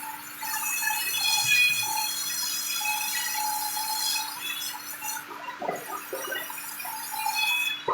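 Sawmill saw cutting wood, giving a high-pitched squealing whine whose pitch shifts as it cuts, over a steady machine hum.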